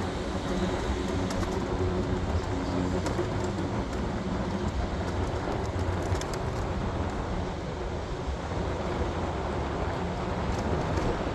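PATH commuter train running on the rails: a steady rumble with a low hum and a few faint clicks.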